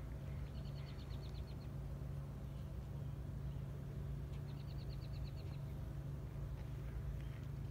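A small bird trills twice, each a quick run of high, evenly spaced notes lasting about a second, over a steady low mechanical hum like an idling engine.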